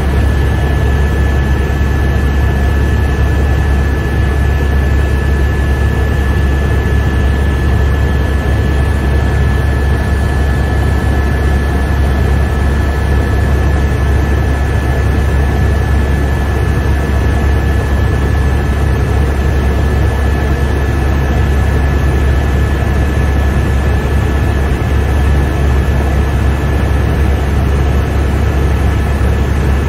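Helicopter in steady flight, heard from inside the cabin: an even, deep rotor and engine drone with a constant high turbine whine over it.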